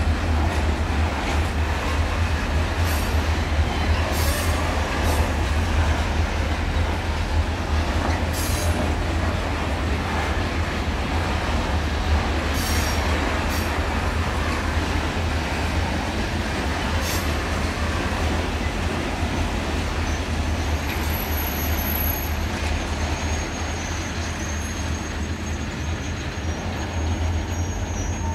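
Freight train of tank wagons rolling past on steel wheels: a steady, dense rumble with scattered sharp clicks as the wheels cross rail joints. A faint high-pitched whine comes in during the last several seconds.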